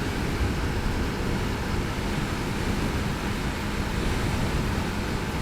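Steady wind rush over a motorcycle rider at road speed, with a faint steady hum from the Yamaha R3's parallel-twin engine underneath.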